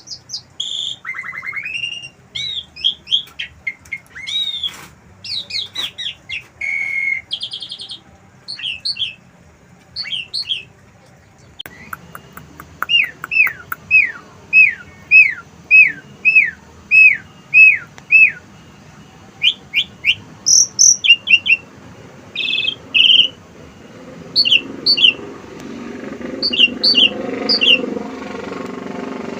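Asian pied starling singing a varied, mimicking song made of phrases learned from wild birds: quick chatters and whistles, then a run of about a dozen evenly repeated falling notes in the middle, and sharp double calls toward the end.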